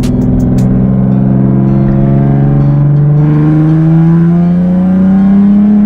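Nissan 370Z's 3.7-litre V6 running loud through a catless, straight-piped exhaust with test pipes, pulling under acceleration with its pitch climbing steadily, then dropping sharply at the very end as the revs fall.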